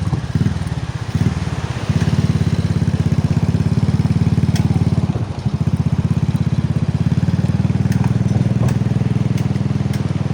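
A small engine running close by with a fast, even pulsing beat. It eases off briefly about five seconds in, then picks up again.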